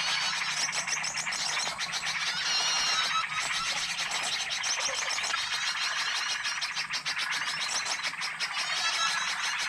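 Bird-lure recording of many small songbirds calling at once: a dense chorus of high, overlapping chirps and trills, with a faint steady low hum underneath.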